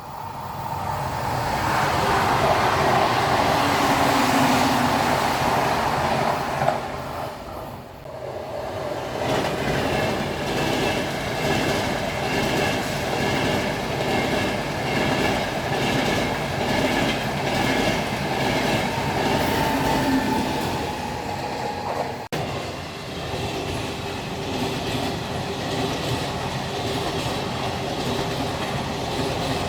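A train running past on the tracks. Its wheels clatter in a steady rhythm over the rail joints.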